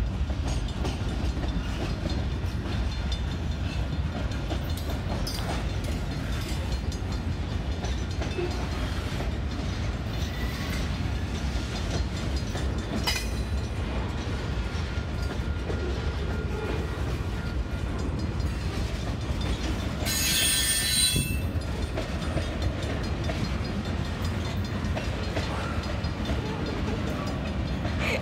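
Train cars rolling past with a steady low rumble. About twenty seconds in, a high squeal rings out for about a second.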